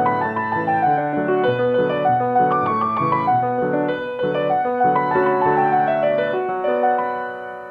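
Background piano music: a gentle run of notes that settles on a held chord fading out near the end.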